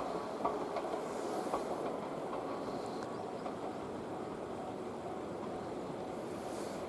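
A train running past on the track, its wheels clicking over rail joints a few times in the first two seconds, then a steady running noise.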